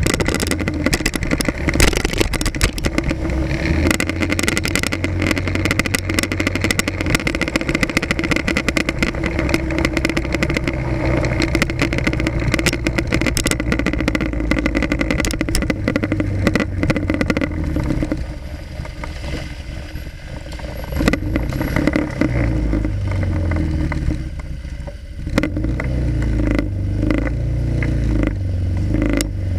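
Motorcycle engine running in city traffic, picked up by a camera mounted on the front of the bike, with frequent sharp rattles and clicks. The engine drops quieter for several seconds past the middle, then picks up again.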